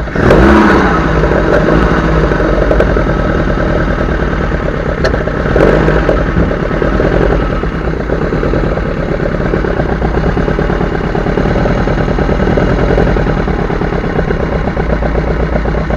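Freshly swapped 2.0 8-valve four-cylinder engine of a Volkswagen Golf Mk1 on Weber 40DCOE carburettors, running with a steady exhaust note. It revs briefly about half a second in and swells again around six seconds in.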